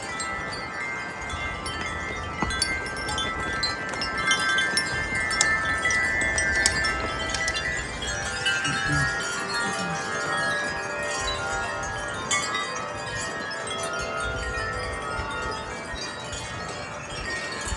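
Wind chimes ringing in strong, gusty wind: many overlapping tones struck again and again without a break. A low wind rumble comes and goes underneath.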